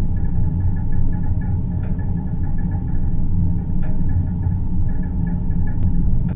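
Space-ambience drone for sleep: a steady, deep rumbling hum with a faint flutter higher up, with soft faint ticks about every two seconds.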